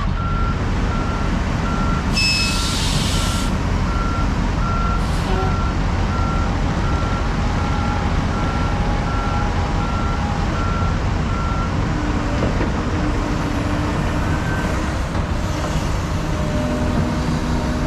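Heavy equipment engines running under a backup alarm beeping steadily, a little over one beep a second, which stops about twelve seconds in. A short hiss of air comes about two seconds in.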